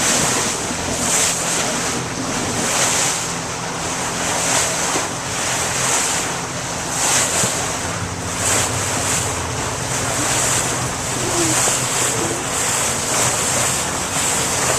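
Motorboat under way: a steady engine hum under rushing water, with the hull splashing through waves about every second or two, and wind buffeting the microphone.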